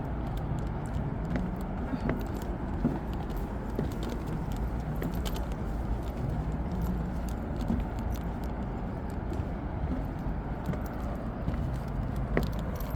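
Footsteps going down outdoor stairs with small handling rustles and clicks, over a steady low outdoor rumble.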